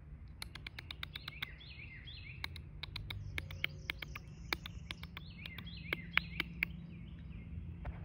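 Small birds chirping, short quick repeated notes, over many scattered sharp clicks and a steady low hum.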